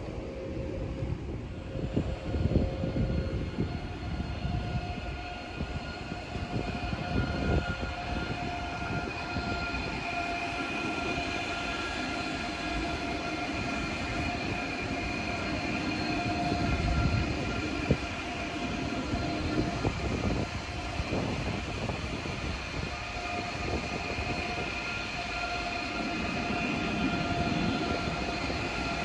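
Train running by on the rails: steady rumbling wheel and track noise with several steady high tones held throughout, and a few louder knocks in the first seconds.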